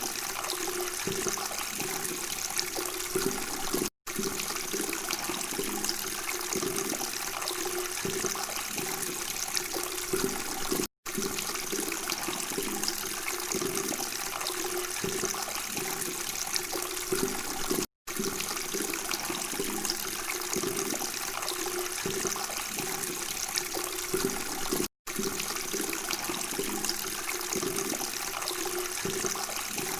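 Steady flowing, gurgling water. It cuts out to silence for an instant four times, about every seven seconds, where a looped recording restarts.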